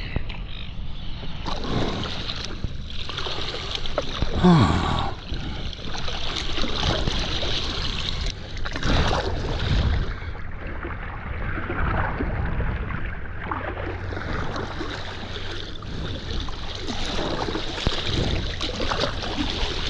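A kayak paddle dipping and splashing in repeated strokes, with water washing against the plastic hull. A brief falling tone about four and a half seconds in is the loudest moment.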